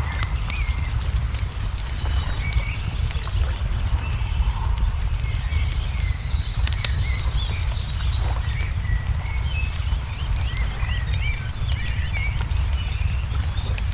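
A wood fire crackling with scattered sharp pops, mixed with small birds chirping and twittering throughout, over a steady low rumble.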